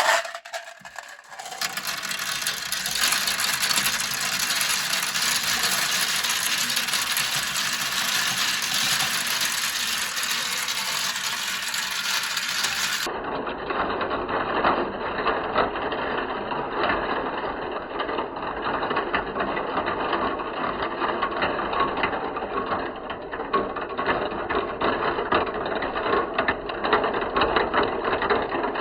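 Many marbles rolling and clattering down a marble-run track, a continuous dense rattle of small clicks. About halfway through, the sound changes abruptly to a duller version of the same rattle.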